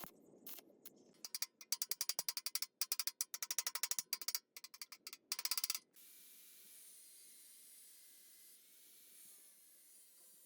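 Several quick runs of sharp, rapid clicks, like a ratchet being worked. About six seconds in, a steady high hiss of spray or air takes over.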